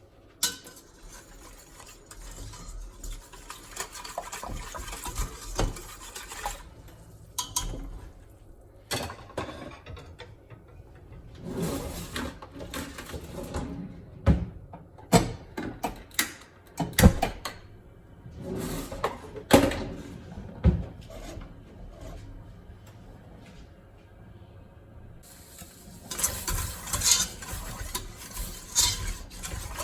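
Kitchen clatter of utensils and dishes being handled: irregular knocks, scrapes and clicks, with several sharper, louder knocks in the middle. About 26 seconds in, a steady frying sizzle starts under the clatter.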